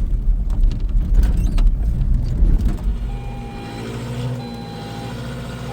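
Motor vehicle engine running as it is backed and turned on rough ground: a heavy low rumble with scattered knocks, easing into a steadier, quieter hum about three seconds in.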